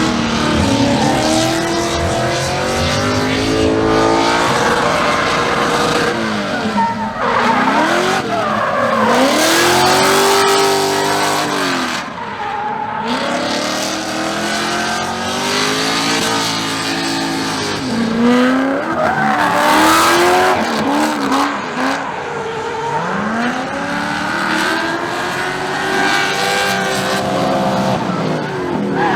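Car engines revving hard over and over, each rev rising in pitch and falling back.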